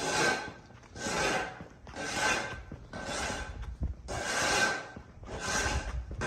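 Rhythmic rasping strokes, about one a second, as a hand tool is drawn back and forth across a rough surface.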